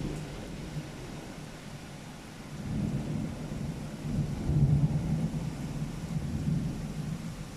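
Thunder during a rainstorm: a low rumble that builds about two and a half seconds in, peaks a couple of seconds later and dies away near the end, over the steady hiss of rain.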